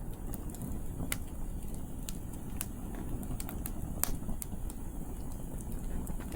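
Wood campfire crackling, with sharp pops scattered through it, the loudest about four seconds in, over a steady low rumble of wind.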